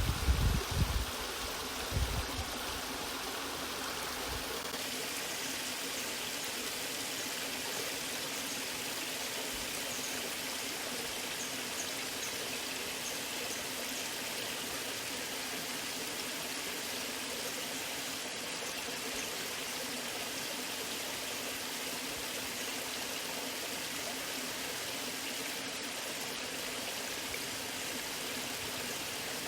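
Waterfall: a steady rush of falling water. A few loud low thumps in the first two seconds.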